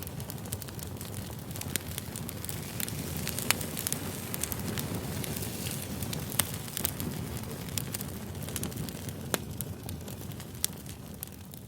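Campfire burning: a steady low rumble with irregular crackles and sharp wood pops.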